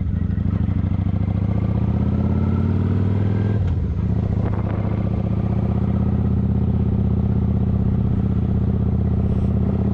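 Motorcycle engine running under way, its note drifting slightly upward, then dipping briefly about three and a half seconds in before running steadily again.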